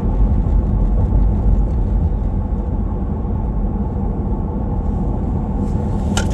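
Vehicle cabin noise while driving: a steady low road and engine rumble, with a few sharp clicks near the end.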